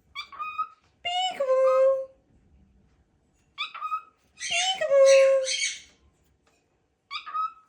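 Pet parrot calling in a repeated pattern: a short high call followed by a longer call that drops in pitch and holds, given twice, then a third short call near the end.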